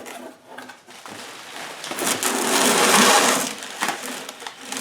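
Cardboard box and packing material rustling and crinkling as a new starter motor is pulled out of its box. There are light handling noises at first, then one long, louder rustle from about two to nearly four seconds in.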